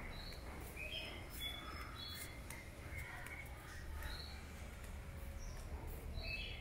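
Birds chirping: short, scattered calls at several pitches over a low steady outdoor rumble.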